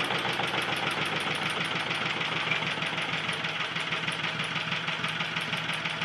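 Vintage Lister Petter single-cylinder stationary engine running steadily with an even, rapid beat, after its magneto was cleaned and its timing and carburettor set. It is running quite nicely.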